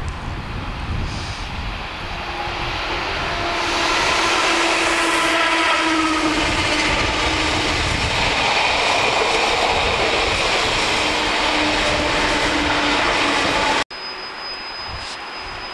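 SBB ICN tilting electric train running past on curved track. Its rushing rail noise builds over the first few seconds, then stays loud with a few steady whining tones on top. The sound cuts off suddenly near the end and gives way to quieter outdoor sound with a faint high steady whistle.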